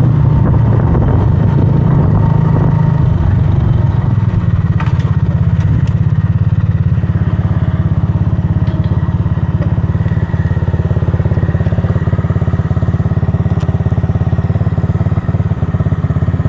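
125cc single-cylinder scrambler motorcycle engine running at low, steady revs with an even pulse. It settles into this after some unevenness in the first few seconds.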